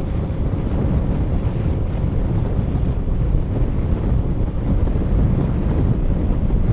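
Steady wind buffeting the microphone of a moving motorcycle, a dense low rumble with road and engine noise buried underneath.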